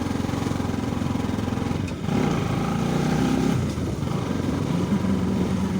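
Motorcycle engine running while the bike is ridden. About two seconds in, it pulls harder and rises a little in pitch for a second or so, then eases back.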